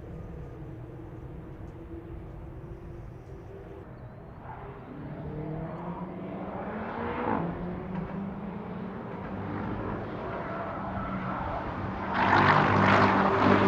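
Car engine running steadily, growing louder from about five seconds in, with a brief swell of noise a couple of seconds later and a louder, noisier rise near the end.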